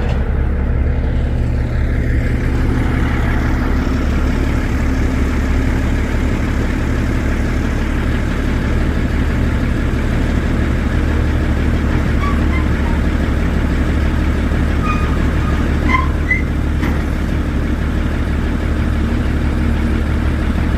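Heavy diesel engine running steadily at idle, a constant low drone.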